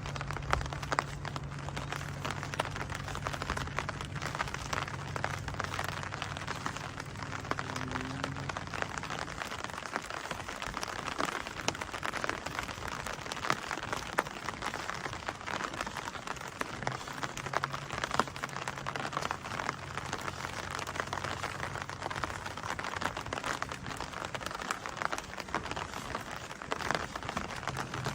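Steady rain falling, a dense patter of many small drops. A low steady hum sits under it for roughly the first nine seconds and returns about seventeen seconds in.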